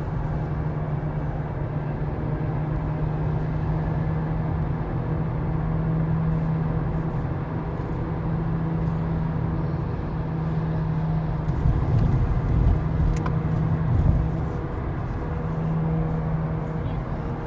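Skoda Octavia A7 hub bearing humming as the car drives: a steady low drone over road noise, the sign of a worn wheel bearing, rising in pitch with speed. Past the middle the drone fades for a few seconds under louder low rumbles, then comes back.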